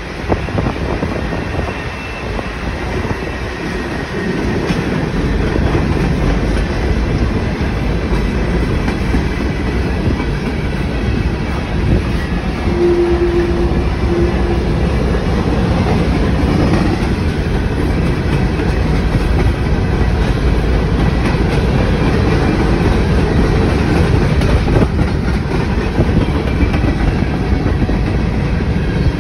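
Freight train of Norfolk Southern open-top hopper cars rolling past, steel wheels clacking over the rail joints with a steady rumble. It grows louder about four seconds in, and a short steady tone sounds about halfway through.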